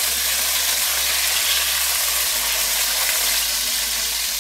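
Chicken drumsticks frying in a little hot oil in a wok over a medium flame: a steady, even sizzle.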